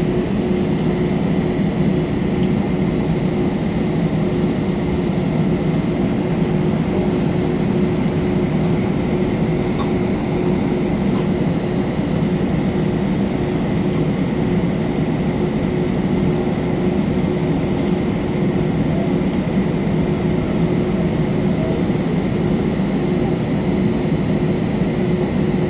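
Steady cabin noise inside an Airbus A320 airliner: the engines and airflow make an even drone with a constant low hum underneath.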